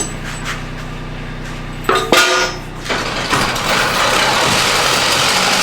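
A motor or engine hums steadily, then a sharp knock with a brief ring sounds about two seconds in, followed by a louder, even rushing noise.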